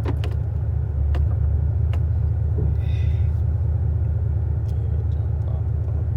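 Car engine and road rumble heard from inside the cabin as the car pulls away, a steady low drone that grows a little louder about a second in.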